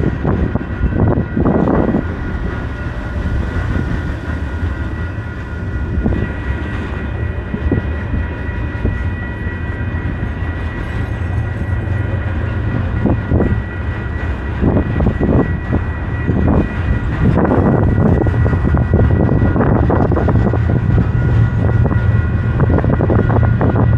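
Loaded coal hopper cars of a freight train rolling past a grade crossing: a steady rumble broken by irregular clanks and thumps from the wheels, with a thin steady high tone over it. A low hum grows louder over the last several seconds.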